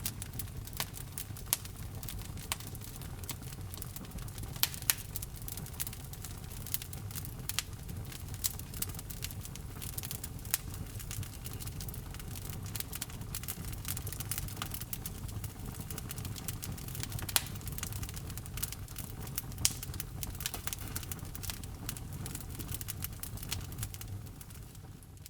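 Wood fire crackling in a fireplace: many sharp, irregular pops and snaps over a low steady rumble of burning, fading out at the very end.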